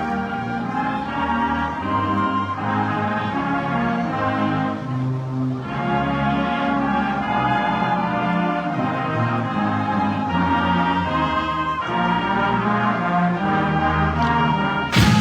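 Marching band brass and woodwinds playing a slow piece in sustained chords, with a sudden loud crash right at the end as louder playing begins.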